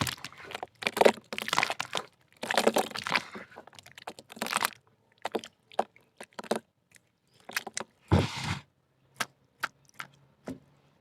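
Chunks of soft 'choco mud' dirt crumbling and crunching in the hand. A dense run of crunches thins after about five seconds to scattered crackles and small snaps, with one heavier crunch about eight seconds in.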